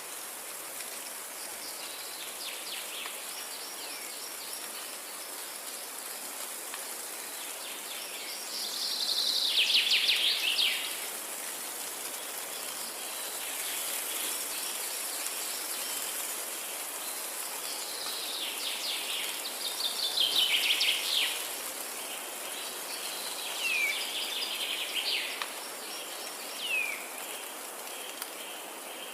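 Forest songbirds singing over a steady high insect hiss. Two loud, rapid trilled songs come about nine and eighteen seconds in, followed by several short down-slurred chirps near the end.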